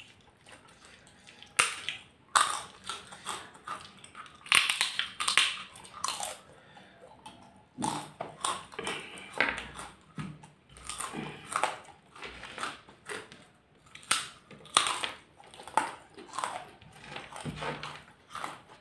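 Close-up eating sounds of two people finishing rice and side dishes by hand: irregular chewing, mouth noises and crunching.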